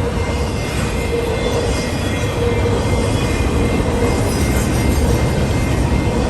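A train rolling past, its cars' wheels giving a loud, steady rumble over the rails with a steady tone above it.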